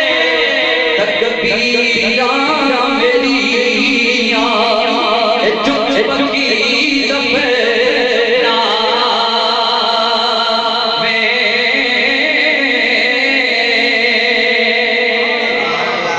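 Devotional singing with music: a voice holds long, wavering sung lines over steady accompaniment.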